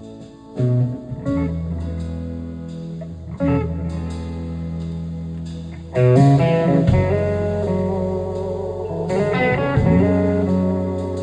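Live band playing blues-rock, with guitar to the fore over a steady bass line and loud ensemble accents about a second in, again near three and a half seconds, and about six seconds in.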